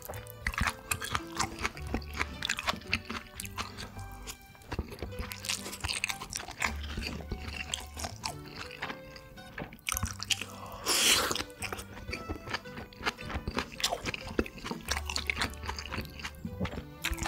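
Close-miked chewing and biting of food, with many short crunchy clicks, over background music with held bass notes. There is one louder noisy burst about eleven seconds in.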